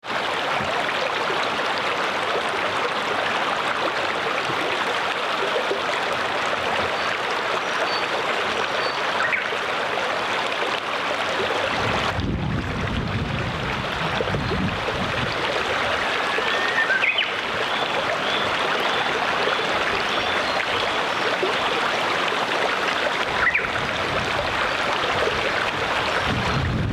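Fast-flowing stream rushing steadily, with a few faint, high bird chirps over it. A low rumble joins about halfway through.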